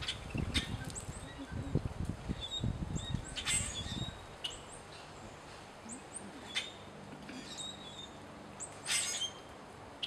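Birds chirping: short high calls scattered throughout, over a low rumble that stops about four seconds in, with a few sharp clicks.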